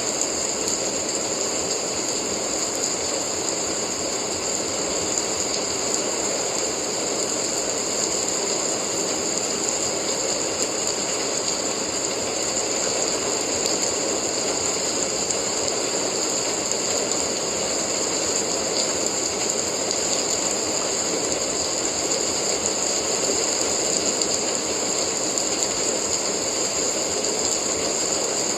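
Steady rain: a dense, even patter of countless drops over a constant hiss, with no change in level.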